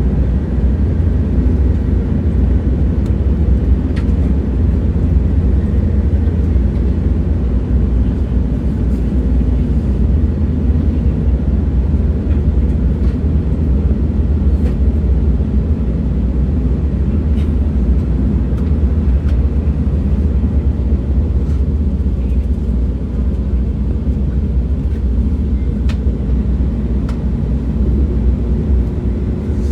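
Steady low rumble of a moving train, with a few faint clicks over it and a faint steady tone coming in near the end.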